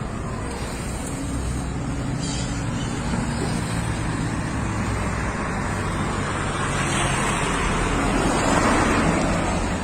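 Honda CBR1000RR SC57's inline-four engine running steadily, getting louder toward the end, then cutting off abruptly.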